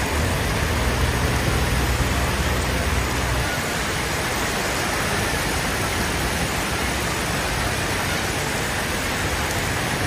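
A motor vehicle's engine running with a low hum under a steady hiss; the hum drops away about a third of the way in, leaving the hiss.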